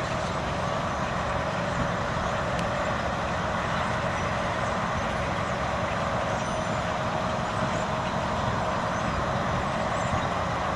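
Steady city traffic noise, with faint high twitters from a flock of swallows scattered through it.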